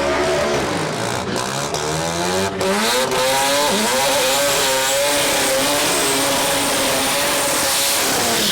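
Twin-turbo small-block Ford V8 in a drag-race pickup at full throttle on a pass, its pitch rising over the first few seconds and then holding high and steady with a thin whine above it. It cuts off abruptly at the end.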